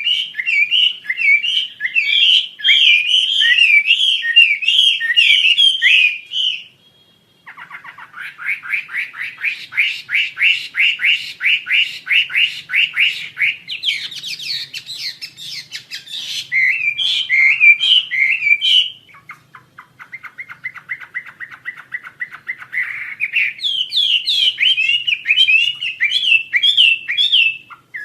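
Wambi Asia songbird singing a loud, varied song. It opens with a quick chattering run of chirps, then after a short pause a long, even trill of rapid repeated notes, more chirping phrases, a second lower, faster trill, and chirps again near the end.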